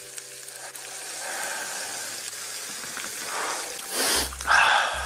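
Pork belly and kimchi sizzling on a hot cast-iron cauldron lid, a steady frying hiss that grows a little louder after the first second. Two short, louder noises come near the end.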